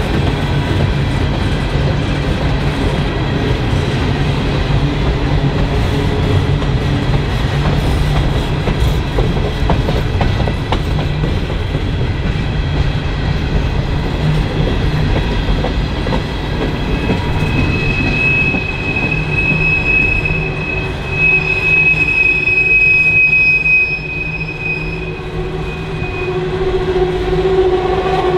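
Norfolk Southern coal train's hopper cars rolling past: a steady low rumble with clicking of wheels over rail joints. A high-pitched wheel squeal rings for several seconds in the second half, and a lower steady tone builds near the end.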